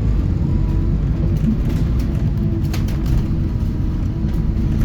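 Scania K230UB city bus's diesel engine running steadily, heard from inside the passenger cabin with low road noise, and a few light clicks or rattles a couple of seconds in.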